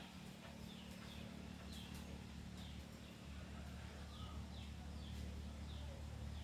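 A small bird chirping over and over in short, falling notes, over a low steady hum that gets a little louder about three seconds in.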